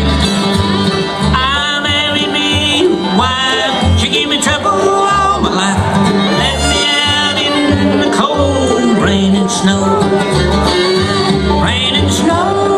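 Bluegrass band playing live, with banjo, fiddle and guitar over an upright bass keeping a steady beat.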